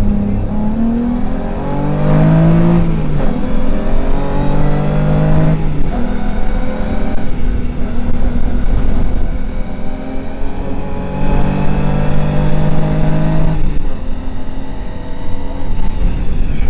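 Rally car engine heard from inside the cabin, driven hard on a stage: the revs climb in each gear and fall back at every gear change, several times over.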